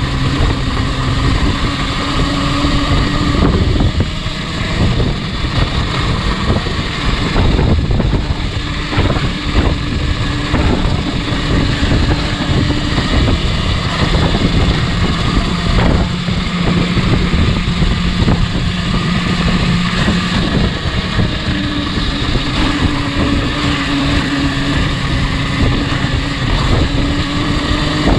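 Motorcycle being ridden, with wind noise on the microphone and a steady drone that changes pitch several times.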